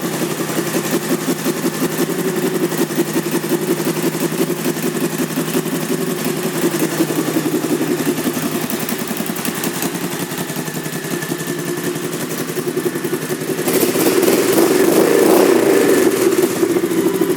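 A 2001 Honda VT1100C Sabre's 1100 cc V-twin engine running with a steady pulsing exhaust note, getting louder for the last few seconds. The exhaust sounds loud enough that the dealer suspects the baffles may have been removed, though the pipes look like stock OEM ones.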